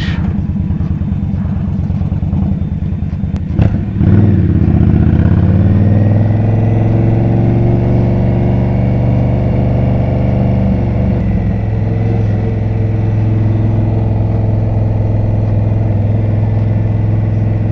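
Indian Scout's V-twin engine running low, with a short click about three and a half seconds in. Then it revs up as the bike pulls away and settles into a steady cruise.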